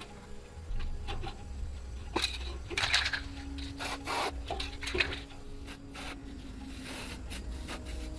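Irregular scraping and rubbing strokes with a few sharp clicks, as of hand work on a part.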